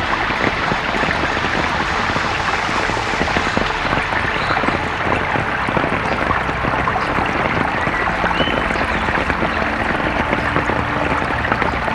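Steady, dense rush of water, typical of heavy rain or fast-running water in a forest.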